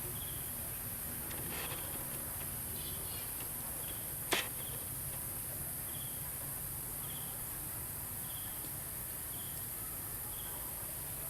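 Outdoor ambience with faint, short high chirps repeating about once a second, over steady background hiss. A single sharp click sounds a little past four seconds in.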